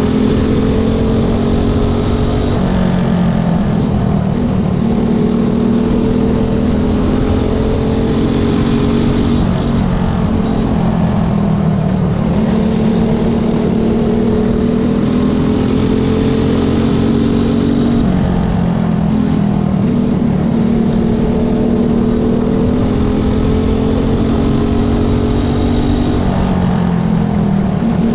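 Small race motorcycle engines running hard and loud through laps of a short track. The engine pitch climbs steadily, then drops back sharply, and this repeats every seven or eight seconds.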